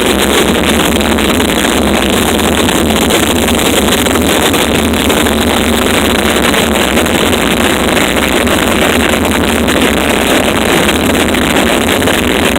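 Harsh noise music played live: a loud, dense, unbroken wall of noise with no pauses or beat.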